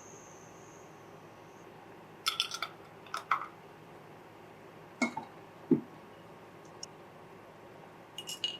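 A few short clinks and light knocks of small household objects being handled, coming in little clusters, with one duller low knock a little past the middle standing out as the loudest.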